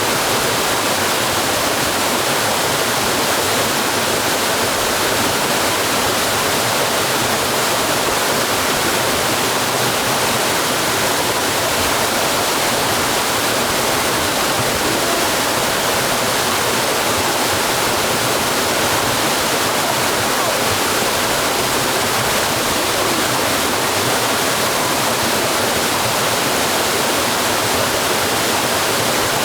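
Waterfall pouring steadily: a dense, even rush of falling water with no break or change.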